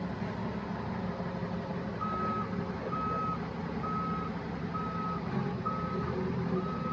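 Truck's reversing alarm beeping at a steady pitch about once a second, starting about two seconds in, over the steady hum of a running truck engine.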